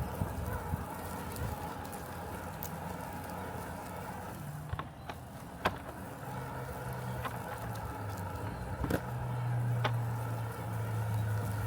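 Robotic lawn mower running with a steady low hum that grows louder over the last few seconds. Scattered sharp ticks sound through it.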